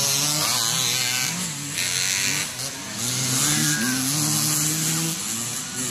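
Several motocross bikes' engines revving together, their pitch rising and falling as the throttles open and close.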